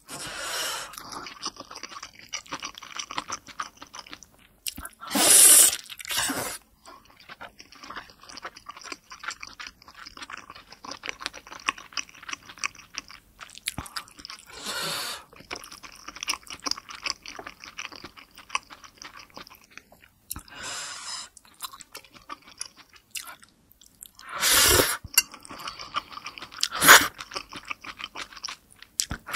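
Close-miked chewing and wet mouth sounds of eating a large pork momo (steamed dumpling) torn apart by hand. A few louder bursts of about a second stand out, one near 5 seconds, one near 15 and two close together near the end.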